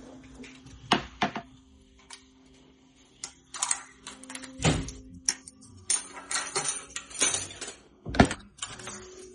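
Live river crabs being handled in a vessel: irregular clicks, knocks and scratchy scrapes, with two sharper knocks near the middle and near the end, over a faint steady hum.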